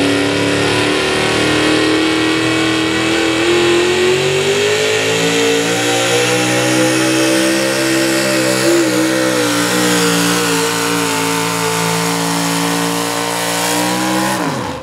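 Pulling truck's engine held at high revs under load as it drags the weight sled, its pitch climbing slowly and wavering briefly midway. The revs drop suddenly near the end as the throttle is let off.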